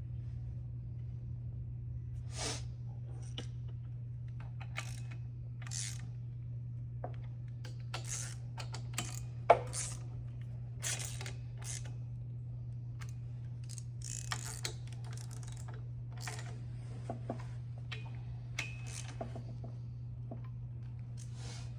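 Irregular metallic clinks and taps of hand tools being handled, with one louder clank about nine and a half seconds in, over a steady low hum.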